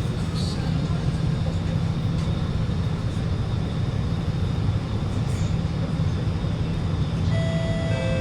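Steady low hum inside the carriage of an Alstom Movia R151 metro train standing at the platform. Near the end, a steady two-tone electronic chime sounds, which signals the doors are about to close.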